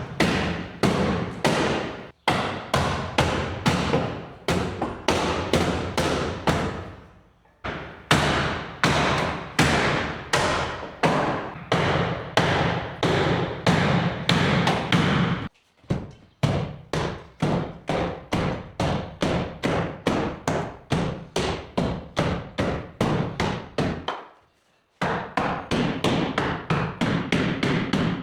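Repeated hammer blows on car body sheet metal, about two a second and quickening near the end, each with a short metallic ring. The run breaks off abruptly a few times.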